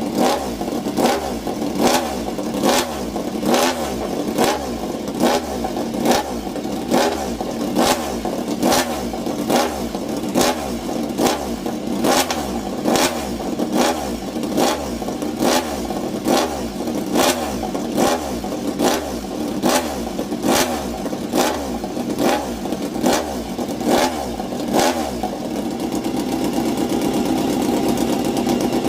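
Motorcycle engine revved in quick repeated blips, about one a second, each with a sharp crack from the exhaust. Near the end the blips stop and it holds a steady, faster run.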